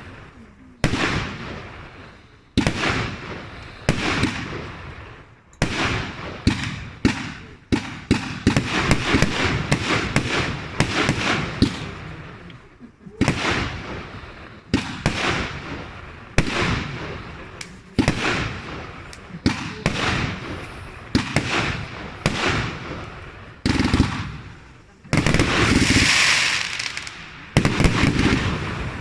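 Fireworks display from a compact ready-to-fire box: shots bursting as sharp bangs one after another, about one every second or two, each trailing off. The shots come faster about a third of the way in, and near the end there is a longer crackling hiss.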